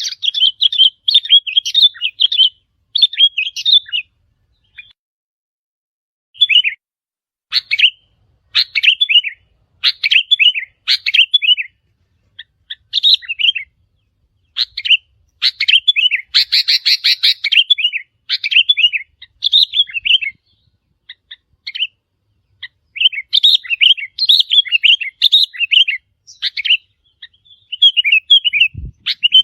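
Sooty-headed bulbul calling in short bouts of quick, bubbly chirping phrases with pauses of a second or two between them; a denser, harsher run of calls comes a little past the middle.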